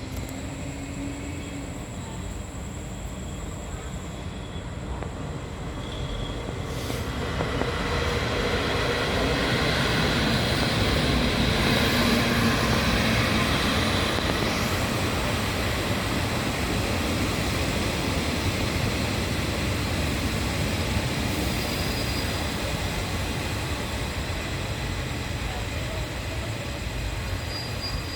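Blue-coach passenger train pulling into the station: the rumble of the train and its wheels swells from about seven seconds in, is loudest a few seconds later, then holds steady. Near the end a thin, high wheel squeal sets in as the train brakes.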